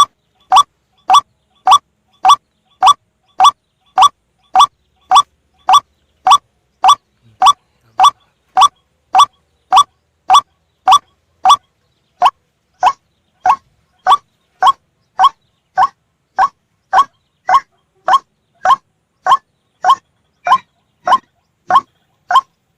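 White-breasted waterhen lure call: a short, clipped 'kruwok' note repeated very evenly, just under two a second. About halfway through, the notes turn slightly rougher.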